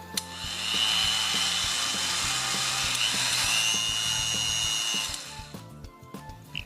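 Dremel 3000 rotary tool running at speed with a high-pitched whine, starting just after the start and stopping about five seconds in, with background music underneath.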